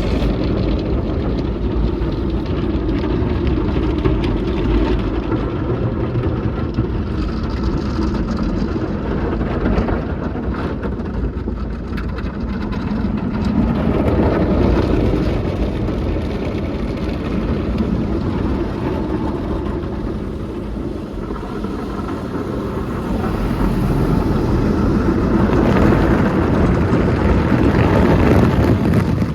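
Express tunnel car wash machinery working over a car: a steady, noisy wash sound, heavy in the low end, that swells about halfway through and again near the end.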